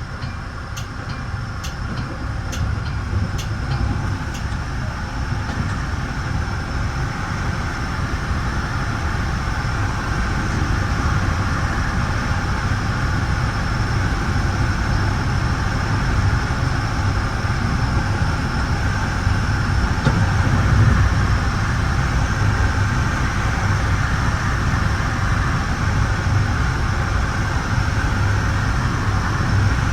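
Steady rumble and wheel-on-rail noise inside a bi-level Metra commuter cab car running at speed. It grows louder over the first several seconds and then holds steady, with faint regular ticks near the start.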